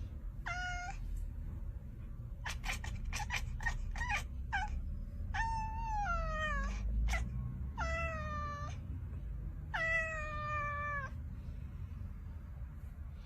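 A cat meowing several times: long, drawn-out meows that each slide slightly down in pitch, about four in all. A quick run of sharp clicks or taps comes between the first and second meows.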